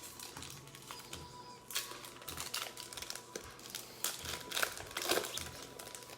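Crinkling and rustling of plastic packaging as a pack of trading cards is handled, in irregular strokes that are busiest in the middle. A faint music beat plays underneath.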